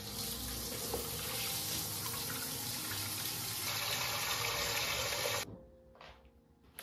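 Water running steadily, which stops abruptly about five and a half seconds in.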